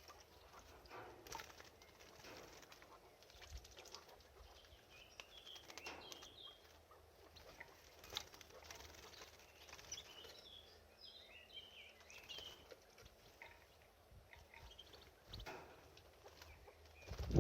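Canary bathing in a birdbath: faint splashing and fluttering of wings in the water, with a few soft high chirps about five seconds in and again around ten to twelve seconds.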